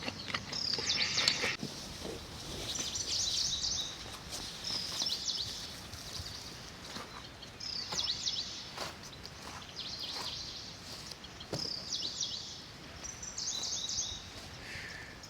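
A bird singing short, high phrases over and over, about one every two seconds, with a few faint clicks in between.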